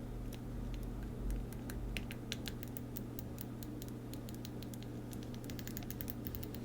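A Deco Rush roller tape dispenser being drawn across a planner page, giving a dense run of quick, light plastic clicks and small scratches from about a second and a half in, over a low steady hum.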